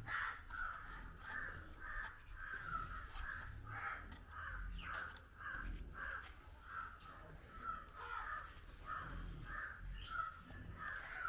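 Crows cawing, a continuous run of short harsh calls at about two a second.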